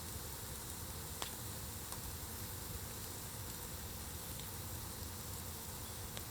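Wood fire burning on embers: a steady low hiss with a few sharp crackling pops, the clearest about a second in.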